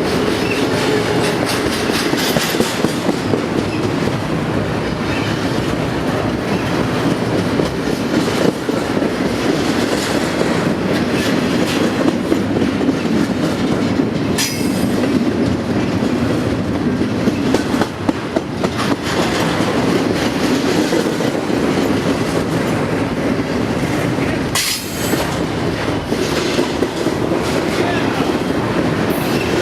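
A train rolling past with steady wheel-on-rail noise and a run of clicks as the wheels cross rail joints. Twice, about halfway through and again later on, there is a brief high-pitched sound.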